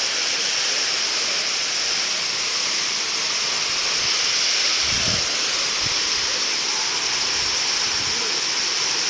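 Dlundung waterfall: falling water rushing steadily, with a few brief low thumps about halfway through.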